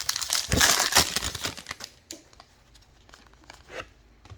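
Crinkling and tearing of a trading card pack's foil wrapper being ripped open, dense for about two seconds, then a few light clicks.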